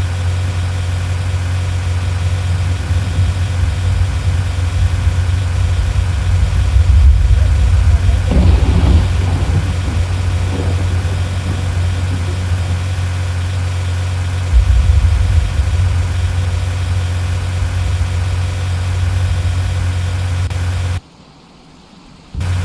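A vehicle engine idling with a steady low hum. It cuts out abruptly for about a second and a half near the end.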